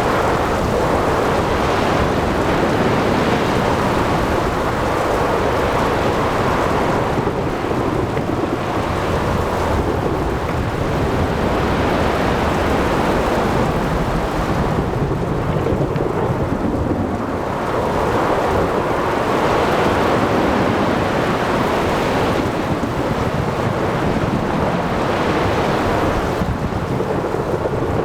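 Thunderstorm at sea: rumbling thunder and rain over breaking waves, a dense, steady wash of noise that swells and eases every several seconds.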